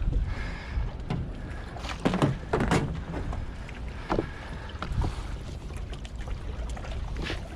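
Wind rumbling on the microphone aboard a small boat, with several knocks and bumps. The loudest is a cluster of knocks about two seconds in, and there are single ones later.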